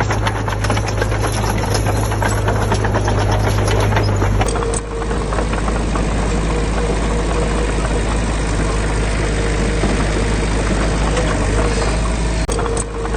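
Diesel engine of heavy earthmoving machinery running steadily with a rapid clatter. The sound changes abruptly about four and a half seconds in.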